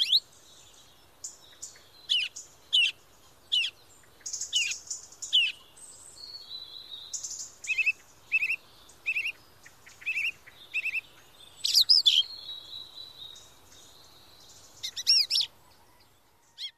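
Birds chirping and singing: a string of short whistled notes, some in quick pairs, with higher buzzy trills in between.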